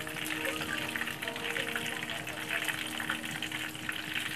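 Breaded chicken scallop sizzling in hot oil in a frying pan, a dense, steady crackle of tiny pops.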